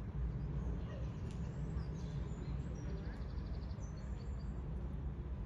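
Steady low rumble with faint, short high-pitched bird chirps over it, and a brief run of fast ticks about three seconds in.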